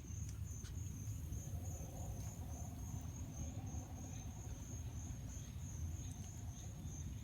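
Insects trilling in a steady, high, finely pulsing chorus, over a constant low rumble on the microphone.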